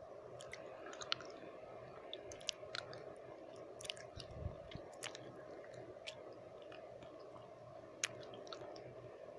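Close-miked wet mouth sounds: irregular lip smacks and tongue clicks, some quick runs of them, over a steady background hiss.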